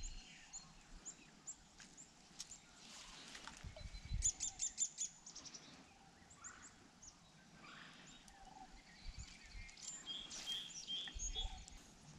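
Songbirds calling in the open: repeated short, high chirps, a quick run of notes about four seconds in, and a trill near the end, all fairly quiet.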